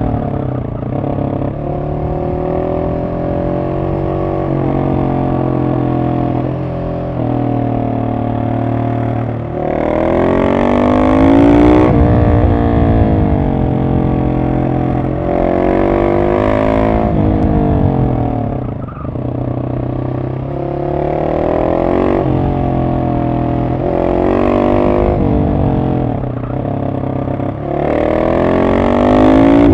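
Husqvarna 701 SM's single-cylinder engine through a de-catted Arrow exhaust with the dB killer in, heard from on the bike while riding. The revs climb and fall again and again through throttle and gear changes, with a few harder pulls to higher revs.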